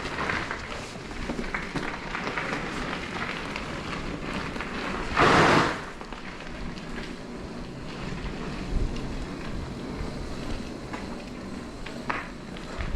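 Mountain bike rolling down a dirt trail: steady tyre and wind noise with scattered small clicks and rattles, and a short loud rush of noise about five seconds in.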